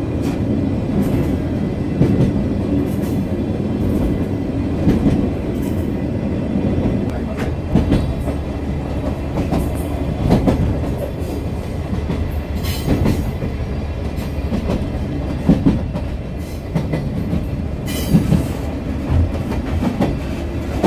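Sagano Romantic Train carriage running along its track: a steady low rumble, with the wheels clacking and knocking over the rails at irregular intervals.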